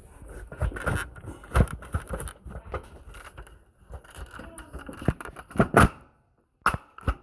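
Dryer panel parts being handled and fitted back together: irregular clicks, knocks and rustling, with the loudest knocks near the end.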